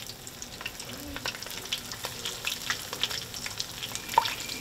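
Breaded fish fillets deep-frying in hot oil in a pan: a steady sizzle with many small pops and crackles, and one sharper tick a little over four seconds in.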